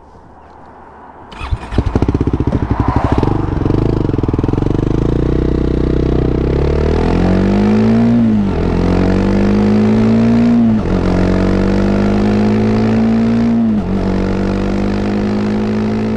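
Triumph Scrambler 400 X's single-cylinder 'thumper' engine cuts in loudly about a second and a half in and runs at low revs. It then pulls away, the revs climbing and dropping back at three upshifts.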